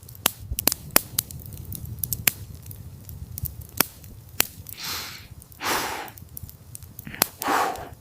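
Campfire crackling with sharp pops, and three heavy breaths from a sleeping dog in the second half.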